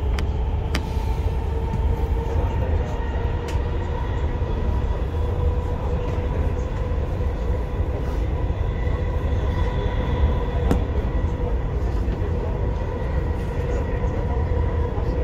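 Dubai Metro train running between stations, heard from inside the carriage: a steady low rumble with a steady whine over it and a few light clicks.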